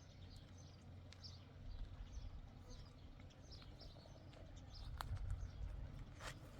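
Small birds chirping faintly, many short high notes one after another, over a low rumble of wind; a single sharp click about five seconds in.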